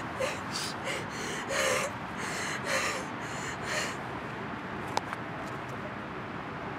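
A person gasping, about seven sharp breaths in the first four seconds over a steady hiss, then a single click about five seconds in.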